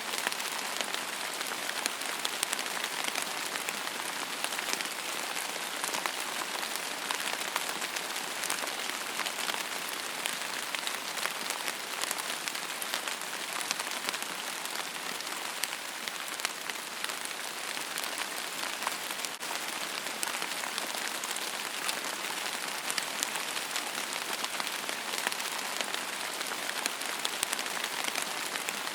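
Steady rain falling: an even hiss made up of many small, distinct drop impacts, with no let-up or change in strength.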